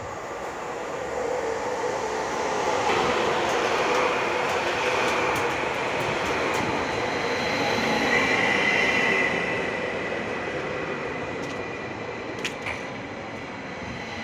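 Electric commuter train pulling into a station platform and passing close by, its running noise building and then easing. A steady high-pitched wheel squeal sets in about eight seconds in as it slows, with a couple of sharp clicks near the end.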